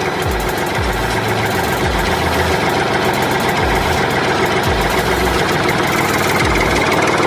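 Steady engine-like running sound, as of an idling engine, with deep low thumps at uneven intervals.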